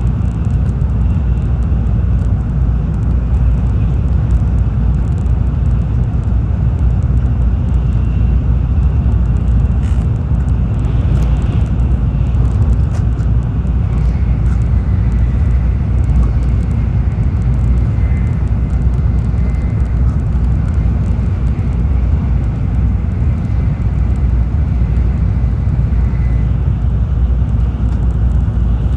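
Tokaido Shinkansen cabin noise as the train runs: a steady, loud low rumble of wheels and air, with a faint thin high whine through the middle stretch.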